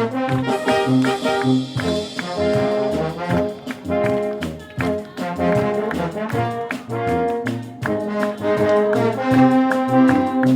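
Wind band playing, with trombones and trumpets leading the tune in short, rhythmic notes over a steady beat.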